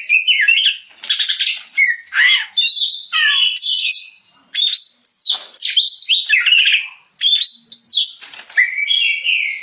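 Oriental magpie-robin singing loudly in full, unbroken song: a fast run of varied whistles, rising and falling sweeps and scratchy notes, with only brief pauses between phrases.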